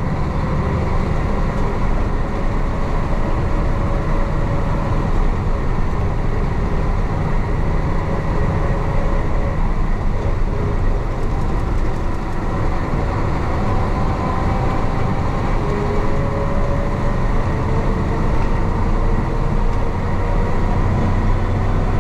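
The 1966 Isuzu BXD30 bonnet bus's DA640 diesel engine running steadily as the bus drives.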